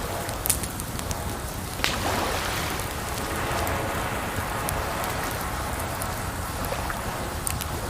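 Campfire crackling, with a few sharp pops, over a steady hiss of water.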